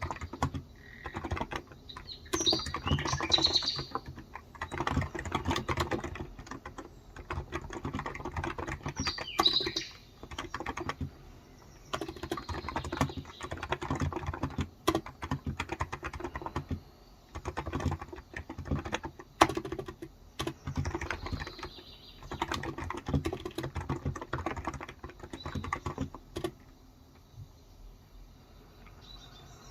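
Typing on a Cox Endeavor electro-capacitive 35 g tenkeyless keyboard: runs of rapid keystrokes in bursts with short pauses, stopping for a few seconds near the end. Birds chirp briefly in the background twice early on the track.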